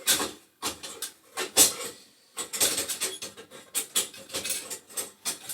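Boiler gas burners of sheet metal being slid and dropped into their slots in the burner tray: an irregular run of short metal knocks, clinks and scraping rubs.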